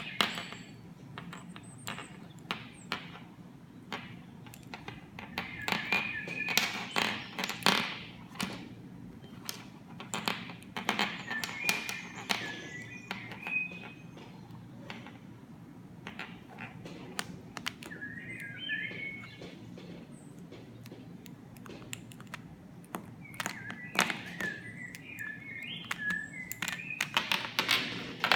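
A small bird chirping in short warbling calls every few seconds, among frequent sharp taps and clicks.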